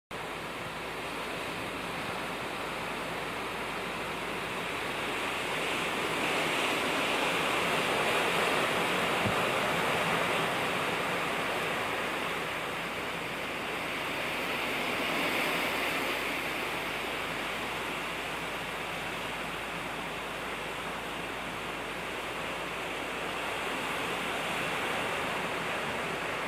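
Strong wind blowing, a steady rushing noise that swells twice in gusts.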